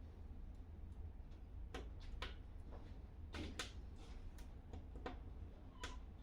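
Wood fire crackling: sharp, irregular pops and snaps, about a dozen of them, over a low steady rumble.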